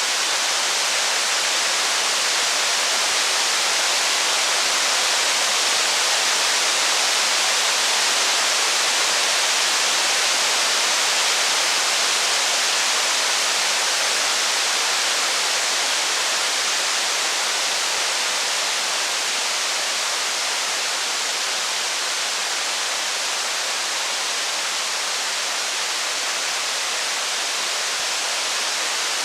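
Steady rain, an even hiss that holds at one level throughout, with no thunder or distinct crackles standing out.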